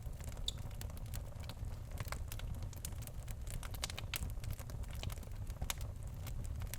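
Birch logs burning in a fireplace: irregular crackles and sharp pops over a steady low rumble of the flames.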